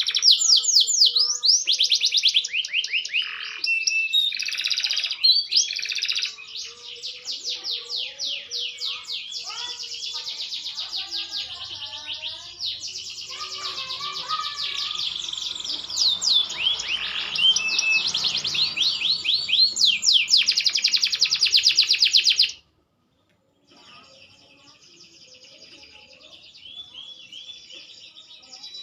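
Green domestic canary singing a long, continuous song of rapid trills and rolled phrases. About 22 seconds in the song cuts off abruptly, and after a second's silence it carries on more quietly.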